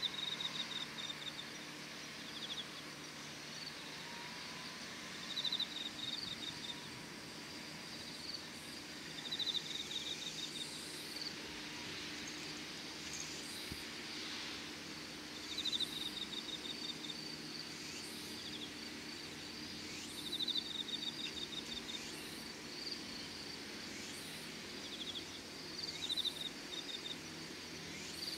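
Crickets chirping: a pulsed trill lasting about a second comes back every five seconds or so, over a steady high-pitched insect hum.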